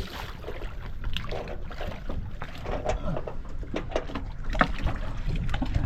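Wind noise on the microphone aboard a sailboat, with scattered knocks and clatter on deck.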